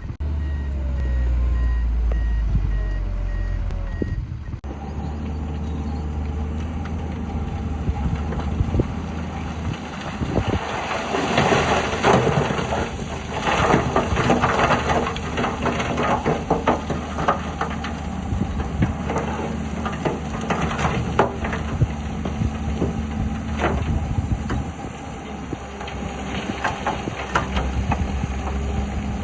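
Heavy earthmoving machinery at work: a dump truck's reversing beeper sounds for the first four seconds over running diesel engines. Then, from about ten seconds in, loud irregular clattering and knocking of rock and metal.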